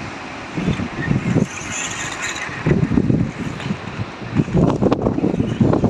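Wind buffeting the microphone in uneven low rumbles and gusts, over a steady hiss.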